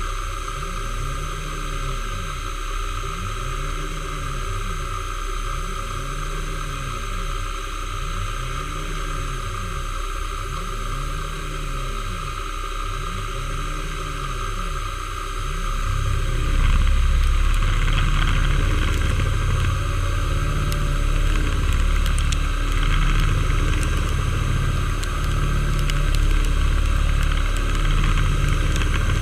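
Metalworking machine tool running steadily, a low tone rising and falling about every second and a half; about sixteen seconds in it turns louder and rougher.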